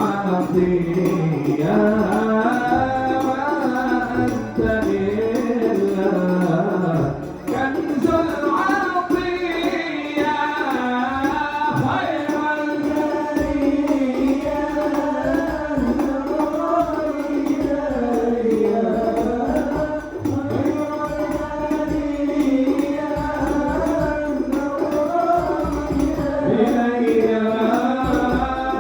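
A male voice singing sholawat devotional chant in Arabic, long ornamented melismatic lines that bend and waver in pitch, over hand-drum accompaniment.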